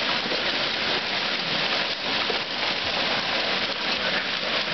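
Hail falling hard: a dense, steady patter of countless small stones hitting surfaces.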